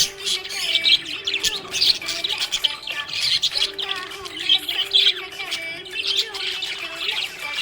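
Budgies (budgerigars) chirping and warbling nonstop in quick, overlapping twitters and squawks, with an on-and-off steady low tone underneath.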